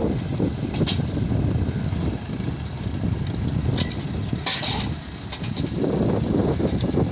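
Tractor engine running with a steady low rumble. A few short sharp rattles come through about a second in and again around four to five seconds in.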